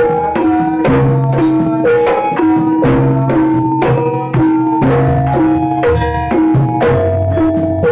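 Jaranan music from a Javanese gamelan-style ensemble: pitched metal percussion struck in a steady interlocking rhythm, each note ringing on, over drumming.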